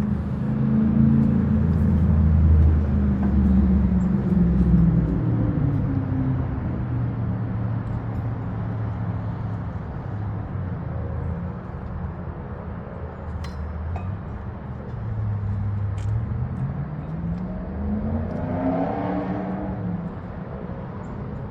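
A motor vehicle engine running nearby, its pitch drifting down and up and rising again near the end before fading. A few faint clicks sound in the middle.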